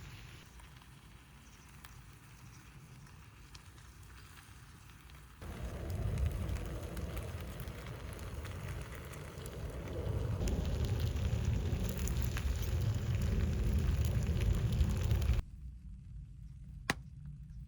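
Yakisoba frying on an iron griddle, with a dense sizzle and crackle. It starts quieter with scattered ticks, jumps suddenly louder about five seconds in, and cuts off abruptly near the end.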